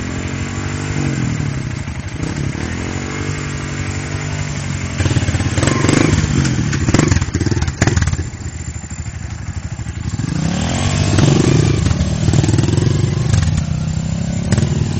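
Dirt bike engine revving up and dropping back several times. There are a few sharp knocks and clatter in the middle, where it is loudest.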